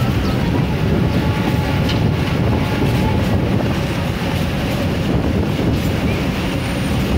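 Passenger train running along the track, heard from an open coach door: a steady, loud rumble of wheels on rails, with a faint high whine in the first few seconds.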